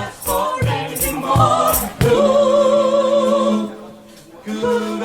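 Vocal trio singing close harmony, largely a cappella; about two seconds in the voices hold a chord with vibrato for a second or so, then fade before the singing resumes near the end.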